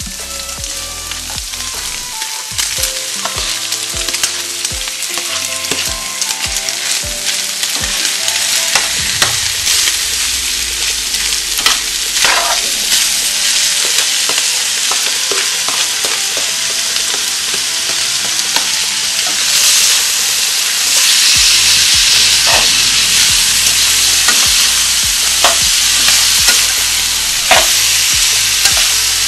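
Chopped beef steak and freshly added diced tomato, onion and green chile sizzling in hot oil in a frying pan. A plastic spatula stirs the mix and taps or scrapes the pan now and then. The sizzle grows louder about 20 seconds in.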